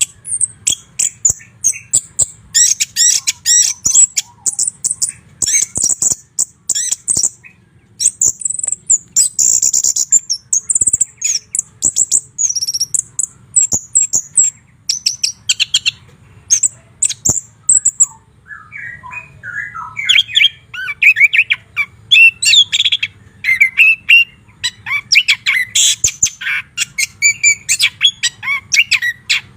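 White-rumped shama singing a rapid, varied song of high whistles and chattering notes, with a brief pause about eighteen seconds in, after which it comes back with lower whistled phrases.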